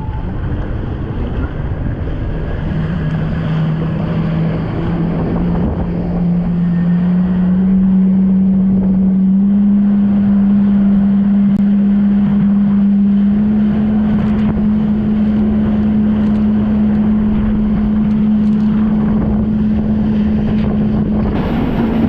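Jet ski engine running under way, its pitch climbing steadily over the first ten seconds as it speeds up and then holding steady at cruising speed. Heavy wind buffeting on the microphone and water rush run underneath.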